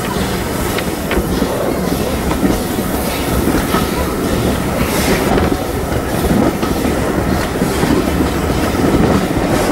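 Heritage steam railway carriage running along the track, heard from an open carriage window: a steady loud rumble of wheels on rails with occasional clicks.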